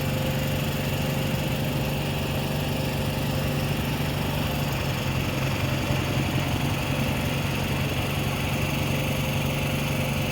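DJI T40 agricultural spray drone's rotors droning steadily in flight, a constant hum with no change in pitch.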